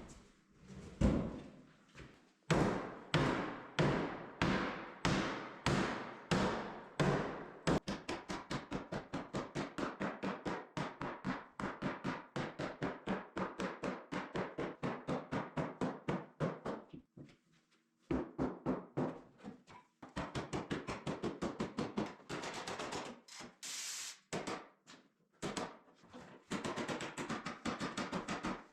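Rubber mallet hammering on dented excavator body sheet metal to straighten it. The blows come about two a second at first, then about four a second in a long fast run, then in shorter runs with pauses.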